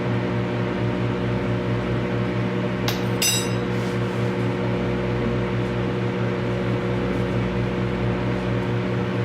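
Microwave oven running with a steady electrical hum. About three seconds in there are two sharp clinks, a third of a second apart, each with a short ring.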